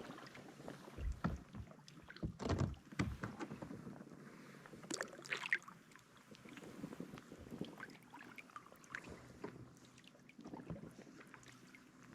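Kayak paddling on calm water: paddle blades dipping and splashing at irregular intervals, with a few sharp knocks, busiest in the first few seconds and again about five seconds in.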